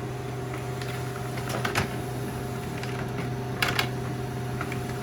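Colour laser printer running through a long double-sided print job: a steady mechanical hum with a couple of sharp clicks from the paper feed, the loudest about two seconds in and again near four seconds.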